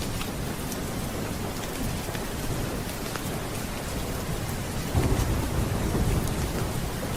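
Steady rain with rolling thunder: a low rumble swells about five seconds in. Faint sharp crackles are scattered over the rain throughout.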